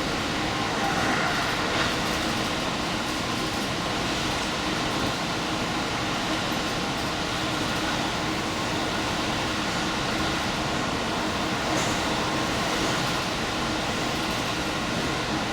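Diesel limited-express train running, heard from inside the front car: a steady mix of engine and wheel-on-rail noise with a faint steady hum.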